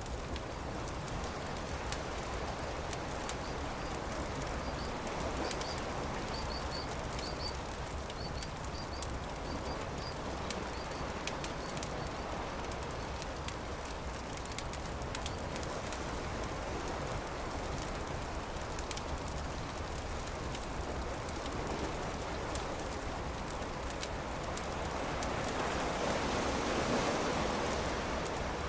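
Campfire crackling against a steady wash of surf, which swells up near the end. A short series of high chirps comes through between about five and eleven seconds in.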